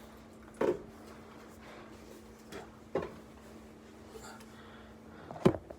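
A few short, sharp knocks, about three, the last and loudest near the end, over a faint steady hum.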